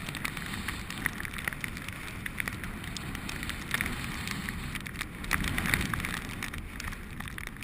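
Wind buffeting a head-mounted action camera's microphone while cycling: a steady low rumble with many scattered crackling clicks over it.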